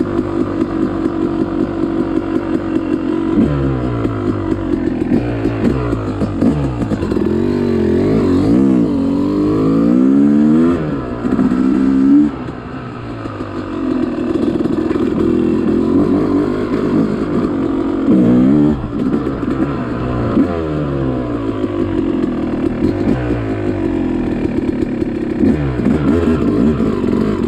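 Yamaha YZ two-stroke dirt bike engine under riding load, revving up and falling back again and again as the throttle is worked. The throttle is chopped sharply about twelve seconds in.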